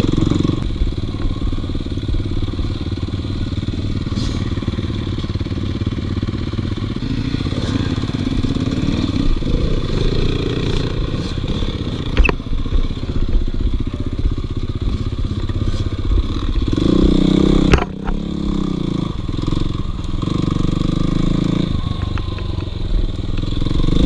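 Dirt bike engine running under load as the bike rides along, the revs rising and falling. The revs climb louder about seventeen seconds in, then drop off sharply before building again.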